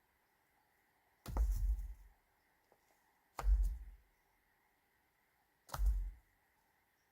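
Three heavy thuds about two seconds apart, each a sharp knock followed by a short low rumble.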